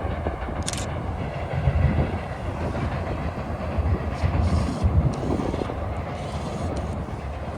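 Freight train running past, its wheels rumbling and clattering on the rails.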